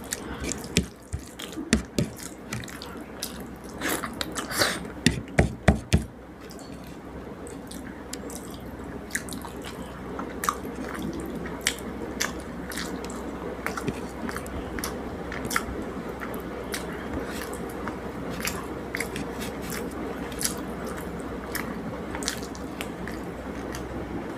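Wet eating sounds of rice and fish curry eaten by hand: sharp, moist clicks of mixing and chewing, loud and close together for the first six seconds, then softer and scattered over a steady background hiss.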